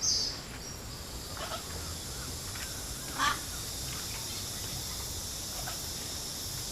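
A few short, sharp animal calls a few seconds apart, the loudest about three seconds in, over a steady high drone of jungle insects.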